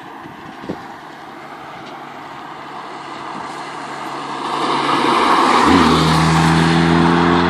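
Opel Vectra C 2.0T's turbocharged four-cylinder engine through a Scorpion aftermarket exhaust, growing louder over about five seconds and then settling into a steady, even exhaust drone from about six seconds in.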